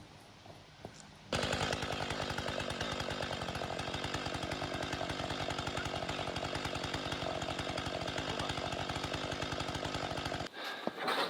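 Chainsaw running steadily. It starts abruptly about a second in and cuts off suddenly near the end.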